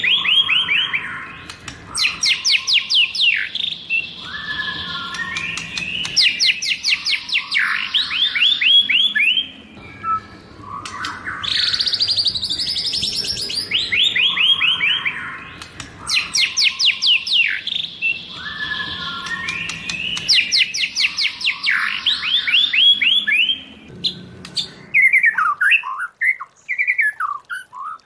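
White-rumped shama singing: loud phrases made of rapid runs of clear whistled notes, the same sequence of phrases recurring about every ten seconds. Near the end the song changes to short, separate chirps.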